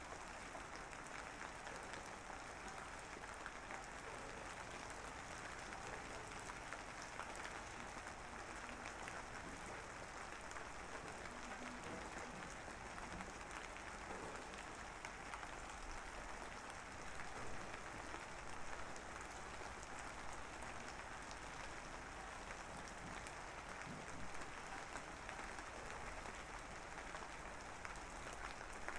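A steady, even crackling hiss with no voice or music in it.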